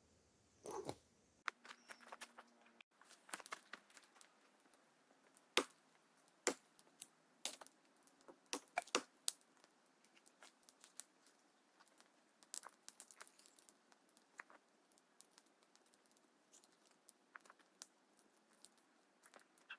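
Irregular dry crackling and snapping of wood and plant material, in uneven clusters, with the sharpest snaps about six to nine seconds in and fewer, softer crackles toward the end.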